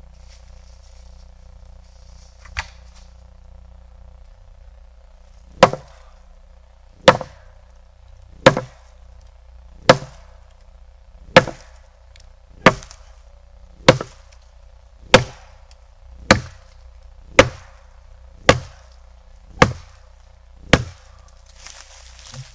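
Axe chopping into a tree branch: a light tap, then a steady run of about thirteen sharp, loud strikes into the wood, a little over a second apart.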